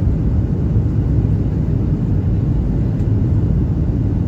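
Steady low rumble of a Boeing 737-800 airliner heard from inside the passenger cabin: engine and airflow noise.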